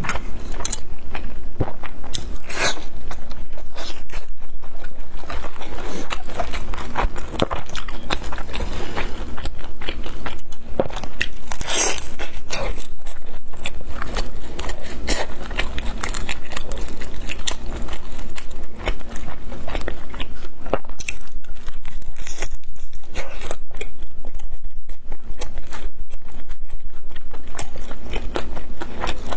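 Biting and chewing of pan-fried Chinese chive pockets (jiucai hezi), the fried crust crunching with many small irregular crackles.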